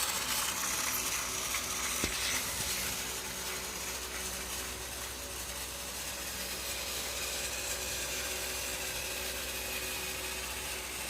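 Battery-powered Trackmaster toy train engine running on its track, its small motor and plastic gearbox giving a steady whirring, ratcheting sound. There is a single click about two seconds in.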